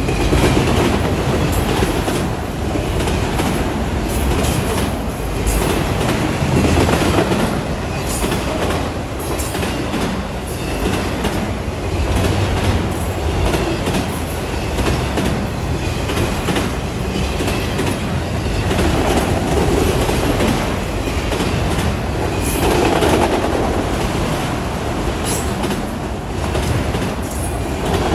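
Freight train of enclosed autorack cars rolling past at close range: a loud, steady rumble of wheels on rail with the repeated clickety-clack of the wheels over rail joints.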